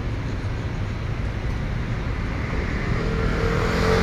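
Road traffic rumble, with a vehicle engine approaching and growing louder near the end.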